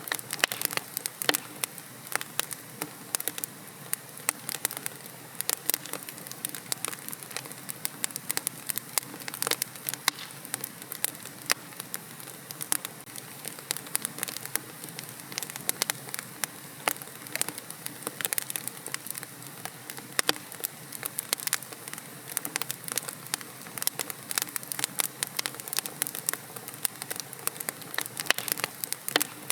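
Wood fire in a fireplace crackling: many sharp irregular pops and snaps over a soft steady hiss of burning logs.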